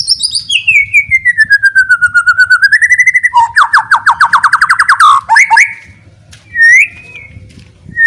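White-rumped shama (murai batu) singing loudly: a long whistle that slides down and back up, then a fast rattling trill, then short upswept whistle notes with pauses between.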